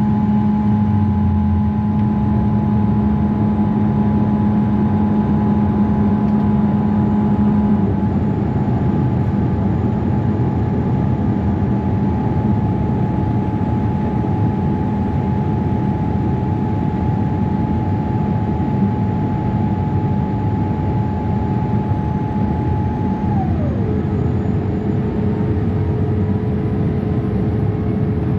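Steady roar of a Boeing 787-8 airliner's cabin in flight, carrying a steady whine from the aircraft. About eight seconds in a low hum stops, and about 23 seconds in the whine slides down to a lower pitch and holds there.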